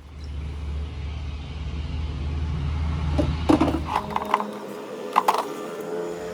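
A machine running with a steady low hum, which cuts out a little after four seconds in; two sharp metallic knocks stand out, one before and one after the hum stops.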